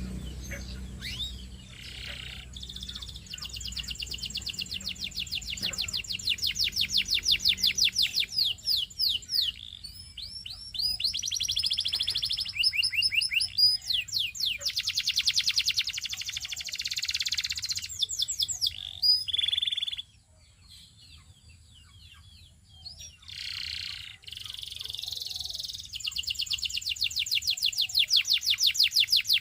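Canary singing: long, fast trills of rapidly repeated high notes. The song breaks off for about three seconds about two-thirds of the way through, then resumes.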